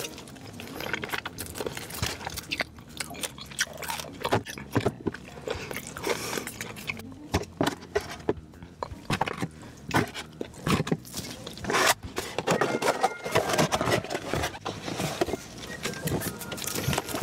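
Close-miked eating sounds: a person biting and chewing food, with many irregular sharp crunches. The crunches come thicker in the last few seconds.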